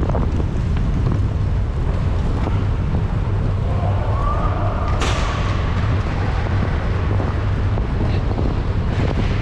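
Steady, loud wind rumble on an action camera's microphone as the rider moves at speed on a cycling track. A brief sharp noise cuts through about five seconds in.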